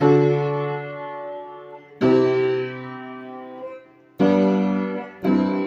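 Keyboard chords struck and left to ring, fading between strikes: one about every two seconds, then two quicker ones near the end, with no singing.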